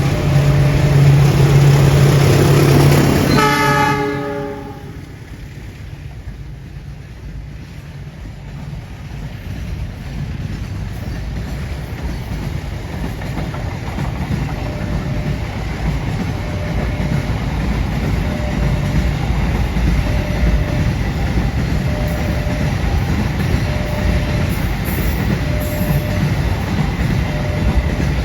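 A train horn sounding during the first few seconds and cutting off, then the rumble of a fast train on the rails building steadily. From about halfway on, a level-crossing warning signal repeats about once a second.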